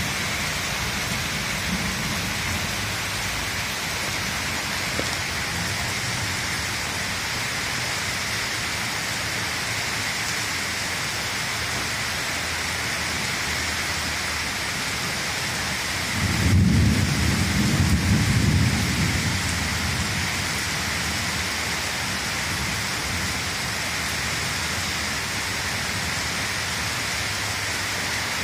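Steady rain falling, with a rumble of thunder about sixteen seconds in that lasts some three seconds.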